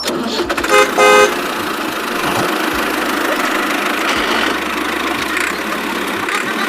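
Two short vehicle-horn toots about a second in, followed by a steady engine-like noise.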